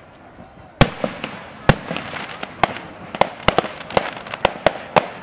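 Aerial fireworks shells bursting in a rapid series of sharp bangs, about ten in five seconds, starting about a second in, with crackling between the bangs in the middle.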